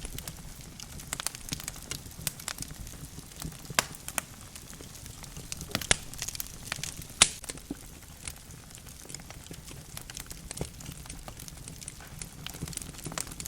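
Wood logs burning in a fireplace, crackling and popping at irregular intervals over a soft low rumble of the flames, with one sharper pop about seven seconds in.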